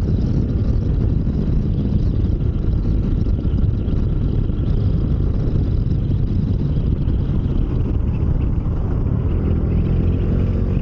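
Motorcycle engine running at highway speed, with heavy wind rush on the helmet-mounted microphone.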